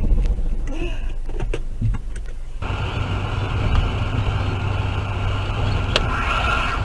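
Inside a moving car: a steady low hum of engine and road noise, with a few clicks in the first couple of seconds and an abrupt change in the noise about two and a half seconds in.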